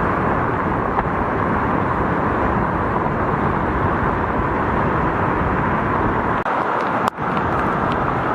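Steady, loud rushing noise with no distinct pitch, broken by two brief dropouts near the end, the second with a sharp click.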